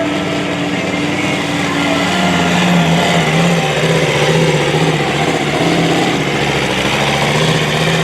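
Pulling truck's engine running loud and steady, its pitch wavering up and down from about two seconds in.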